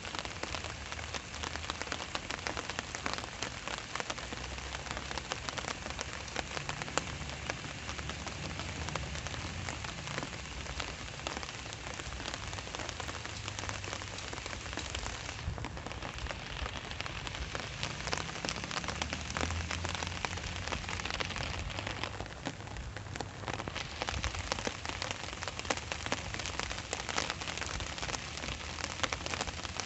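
Steady rain falling and pattering on surfaces, with dense drop ticks and a low rumble underneath.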